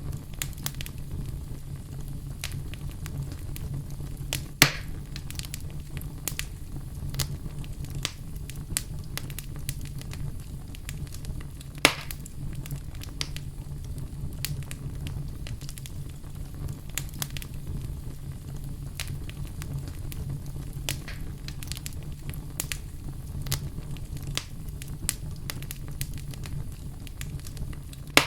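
Wood fire burning in a fireplace: a steady low rumble of the flames with frequent small crackles and two loud pops, about four seconds in and about twelve seconds in.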